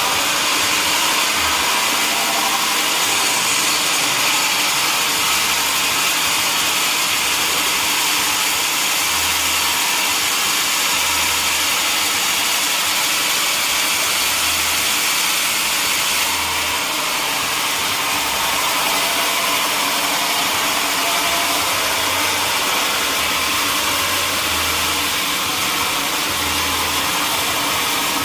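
Sawmill machinery running steadily: a loud, even mechanical noise with a lot of hiss, dipping slightly in level about sixteen seconds in.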